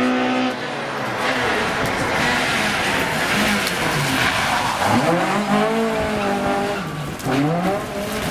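Rally car engine lifting off as it brakes into a tight hairpin, then accelerating out of the bend. The revs climb around five seconds in, dip briefly, and climb again just after seven seconds.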